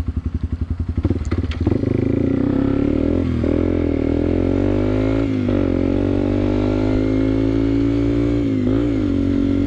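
Yamaha TW200's single-cylinder four-stroke engine idling with an even pulse, then pulling away and accelerating, its note climbing through the gears with three short dips at the upshifts, a few seconds apart.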